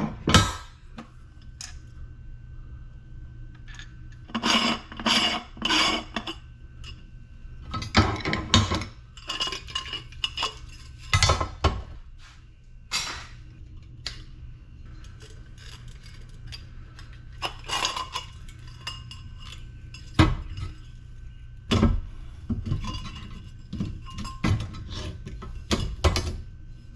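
Aluminium light-fixture parts clinking, knocking and scraping against each other as an LED lamp housing is taken apart by hand, in a string of irregular sharp knocks with short bursts of scraping.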